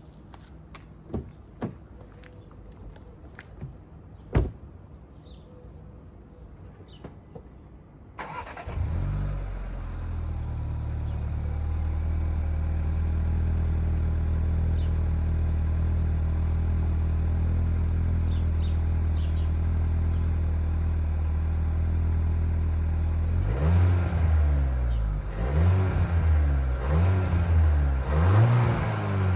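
Seat Leon FR 2020's 1.5 eTSI four-cylinder petrol engine starting about eight seconds in, after a few sharp clicks, flaring briefly and then settling to a steady idle. Near the end the throttle is blipped again and again, the revs rising and falling.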